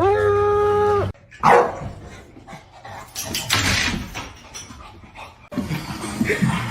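A dog vocalizing: one steady-pitched howl-like call held for about a second, then a single loud, short bark about a second and a half in.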